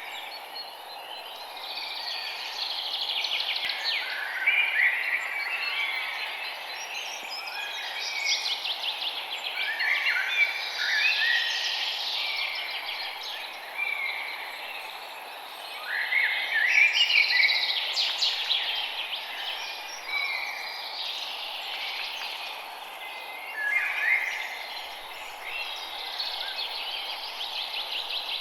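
Several songbirds singing in a forest dawn chorus, with overlapping song phrases coming every few seconds. A steady hiss runs underneath.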